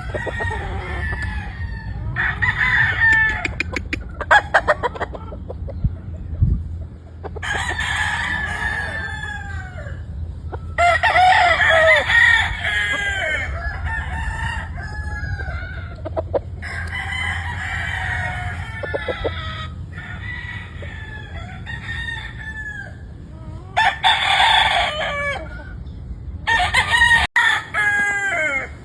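Several gamefowl roosters crowing one after another and over each other, each crow a long call falling in pitch at the end, with clucking between. A steady low rumble runs underneath.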